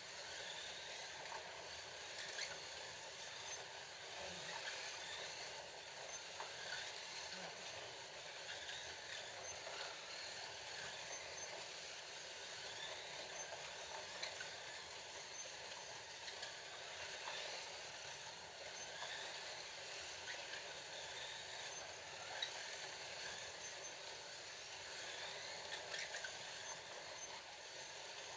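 Scalextric slot cars racing: a steady whir of small electric motors on the track, with faint whines rising and falling as the cars speed up and slow down, and a few light clicks.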